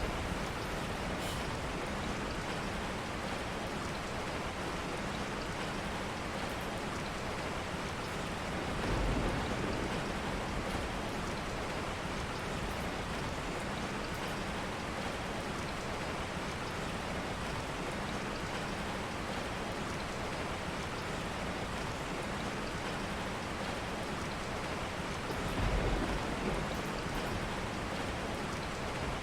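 Steady rain falling, an even hiss of rain on surfaces. Two brief low swells rise out of it, about nine seconds in and again near the end.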